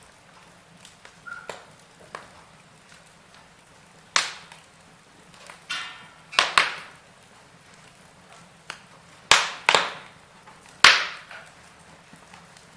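Wood fire in a fireplace crackling, with about six loud, sharp pops in the latter part, the loudest near the end, over a faint steady hiss and small ticks.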